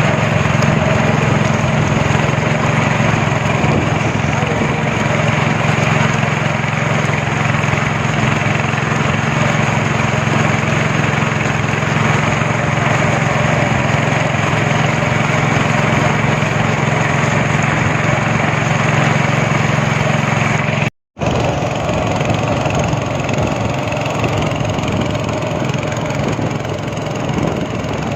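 Speedboat engine running steadily at speed, with wind and water rushing past. The sound cuts out for a moment about three quarters of the way through, then carries on with less of the low engine hum.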